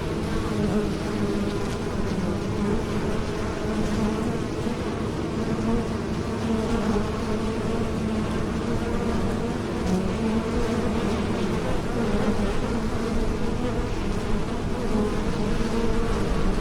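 Honeybees buzzing, many wings together making a steady, dense drone with a low hum and a higher band above it, as of a swarm or a busy hive.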